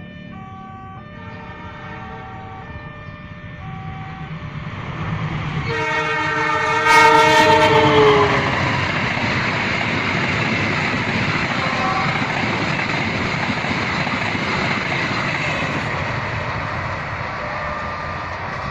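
Passenger train approaching and passing. It sounds its horn once, loudly, about six seconds in, for around two and a half seconds, the pitch sagging at the end; the heavy rumble of the train going by follows and slowly eases near the end. Before the horn, an alternating two-tone electronic warning alarm sounds, and it comes back faintly as the train goes by.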